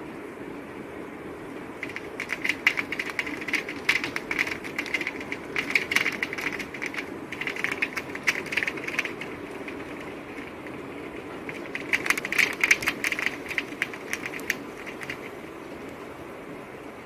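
Steady winter rain with close, heavy drops striking a hard surface in dense spells of sharp ticks, starting about two seconds in. The ticks pause briefly near the middle, pick up again and die away a couple of seconds before the end, leaving the even hiss of the rain.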